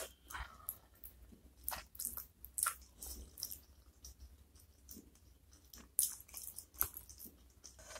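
Close-miked chewing of soft braised chicken feet in spicy sauce: irregular mouth clicks and smacks as the skin and cartilage are bitten and chewed.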